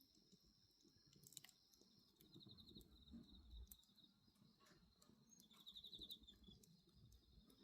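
Faint wood bonfire crackling with scattered sharp pops, one louder about a second and a half in. Crickets trill in the background in short pulsed bursts over a steady high insect drone.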